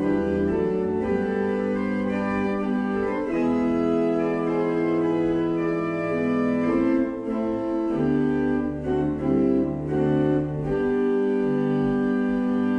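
Organ playing a closing postlude after the benediction: sustained chords over held bass notes, moving to a new chord every second or two.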